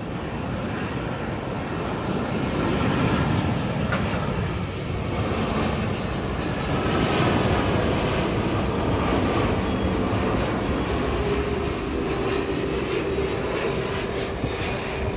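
Airliner's engines passing close overhead, a loud rushing roar that swells over the first few seconds and holds, with whining tones sliding in pitch through it.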